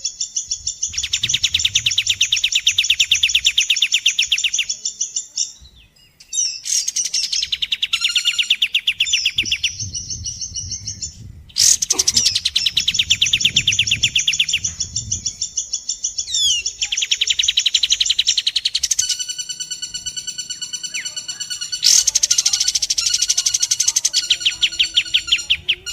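Recorded bird calls of kapas tembak and pelatuk bawang (woodpecker), mixed as a masteran training track. Long, very fast high trills last a few seconds each, with short breaks between them. In the last several seconds comes a dense run of rapid, evenly pulsed notes.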